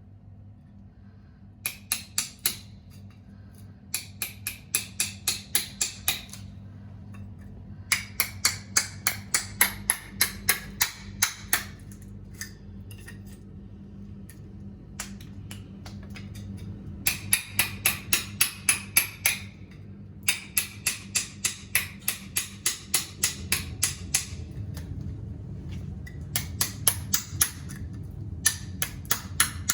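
Hand hammer tapping in quick runs, about three to four light strikes a second with short pauses between runs, over a steady low hum.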